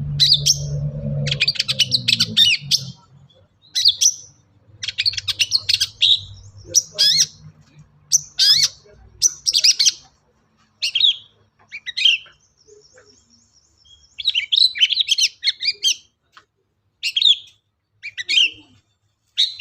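Long-tailed shrike (cendet) singing in short, harsh chattering phrases mixed with mimicked calls of other birds, about one phrase a second with short gaps. About two-thirds of the way through comes a fast, even, high trill.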